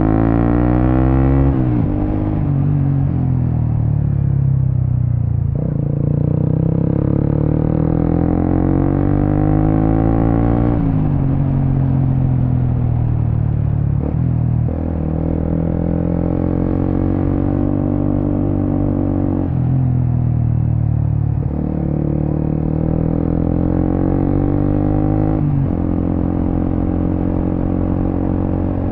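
Suzuki GSX-S150's single-cylinder engine through an aftermarket Quinze big-volume exhaust, ridden: revs climb sharply at the start, then the engine note breaks and settles at a new pitch every few seconds as the rider changes gear and works the throttle.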